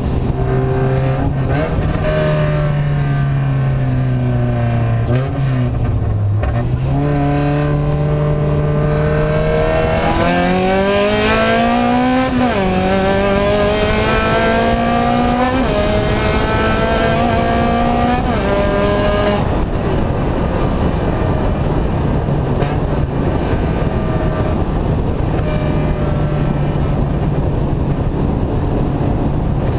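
Engine of a vehicle with an open exhaust being driven: it varies and dips in pitch at first, then accelerates with pitch rising and dropping at three gear changes, and settles into a steady cruise for the last third.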